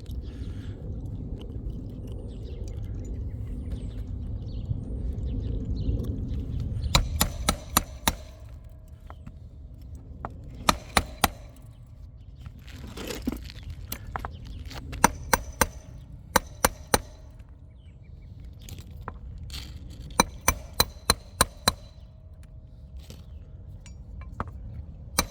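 Hammer blows with a metallic ring, driving roofing nails into asphalt shingles through a snake tool. They come in quick groups of two to six strikes, with pauses between. A low rumbling noise fills the first several seconds.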